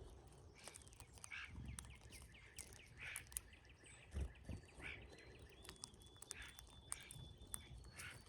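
Faint calls of brown-headed cowbirds: scattered short chips, a quick run of notes early on, and a thin, high whistle held for about two seconds later in. A couple of soft low thumps come in the middle.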